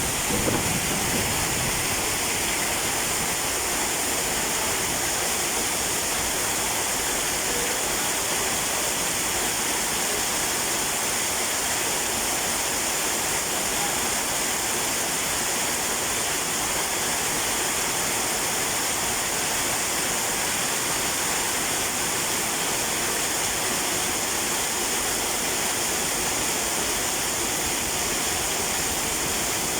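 Heavy rain and rushing stormwater, a steady, unbroken wash of noise.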